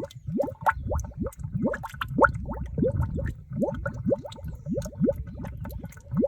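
Mud volcano vent bubbling: gas bubbles bursting through wet mud in a quick, irregular run of plops, several a second, each rising in pitch, over a low gurgle.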